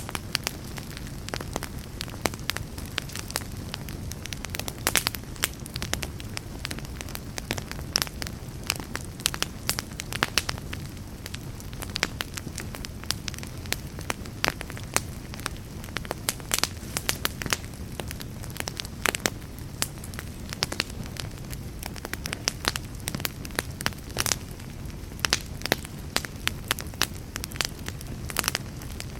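Log fire burning in a fireplace: a steady low rumble of flames under frequent, irregular crackles and sharp pops from the burning wood.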